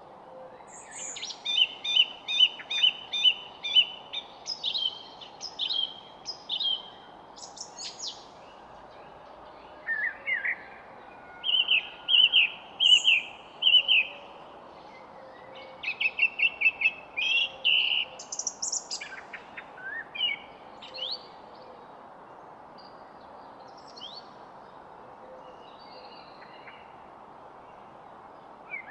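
Songbirds singing: runs of quick repeated chirps and short whistled notes, busiest in the first twenty seconds and sparser after, over a steady background hiss.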